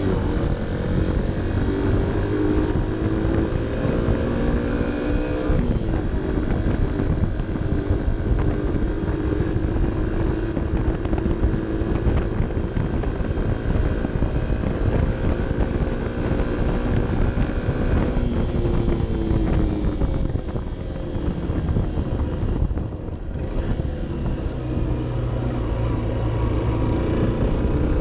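Honda CB 125 F's small single-cylinder four-stroke engine pulling uphill, heard onboard over wind rumble. The engine note drops in pitch about six seconds in, shifts again after about eighteen seconds, and eases off briefly a little later before pulling steadily again.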